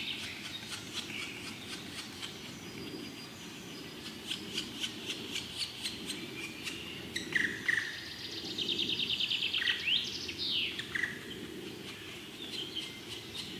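Woodpecker nestlings chirping and calling: quick runs of high ticks and chirps, a fast pulsed trill past the middle, and a few short sliding calls near it.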